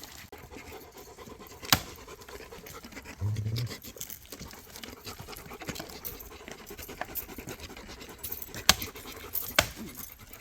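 Dog panting steadily, with a few sharp clicks or snaps, the loudest about two seconds in and again near the end.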